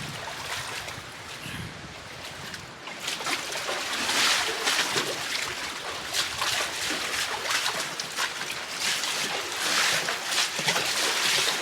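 Creek water running over rock in a slot canyon: a steady rush of water with irregular, splashy surges.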